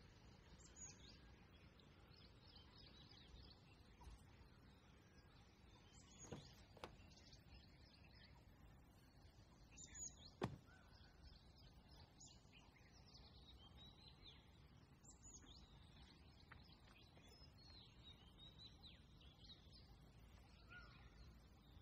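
Faint birdsong: many short chirps and whistles from several birds over a low hiss, with a few sharp clicks around six seconds in and a louder one about ten and a half seconds in.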